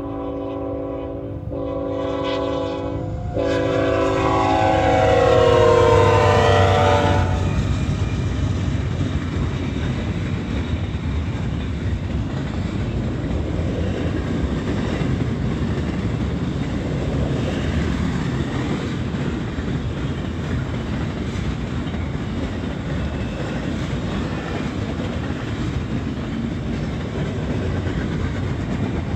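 Diesel locomotive air horn sounding in short blasts and then one long blast whose pitch drops as the locomotives pass, ending about seven seconds in. After that, a long intermodal train rolls past with a steady rumble.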